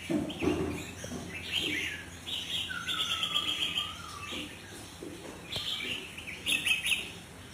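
Sooty-headed bulbul (kutilang) calling: a run of short, bright chirps, with a longer whistled note that dips and rises from about two and a half seconds in. A few soft low thuds come in the first second.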